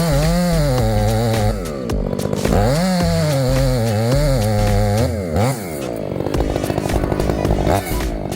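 Chainsaw engine running hard, cutting through a tree trunk: its pitch rises and sags twice as it works through the wood, then settles to a lower, steady run in the last few seconds.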